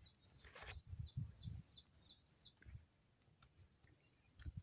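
A bird calling a quick series of short, high, falling chirps, about four a second, which stops about two and a half seconds in. Faint low thumps sound under it.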